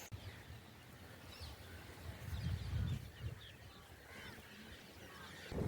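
Faint birds calling, short chirping calls, over a low rumble of wind that swells about two to three seconds in.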